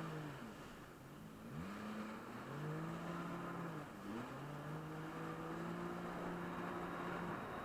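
Jet ski engine running under throttle, its pitch dropping and climbing back twice before holding steady, over a steady rushing noise.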